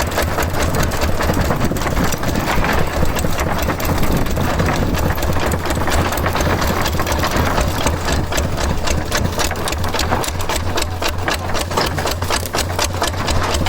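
DIY tractor's small engine running steadily with a rapid mechanical clatter.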